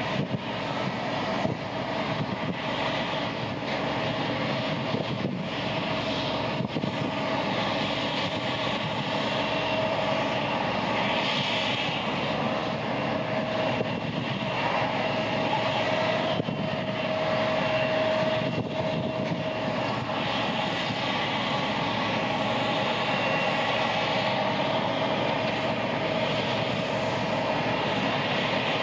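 Boeing jet airliner engines running steadily: a dense rush of jet noise with a held whine.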